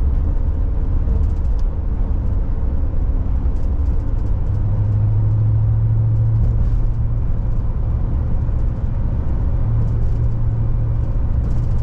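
Car road noise heard from inside the cabin while driving: a steady low rumble of engine and tyres with a droning hum.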